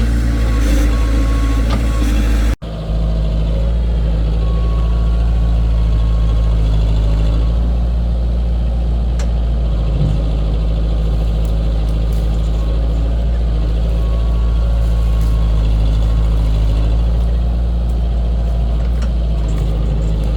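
Heavy diesel engine running steadily at a constant speed, with the sound cutting out for an instant about two and a half seconds in.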